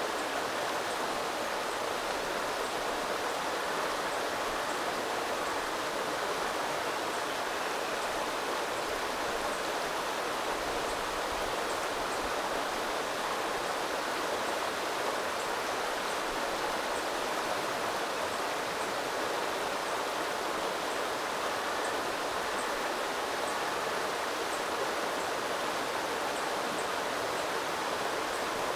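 Small river running steadily over stones, an even rush of flowing water.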